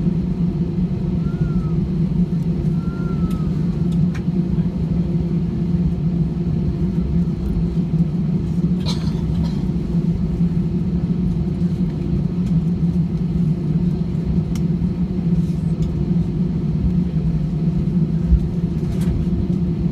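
Steady low rumble and hum inside an airliner cabin from the jet engines and air conditioning after landing, with a short click about nine seconds in.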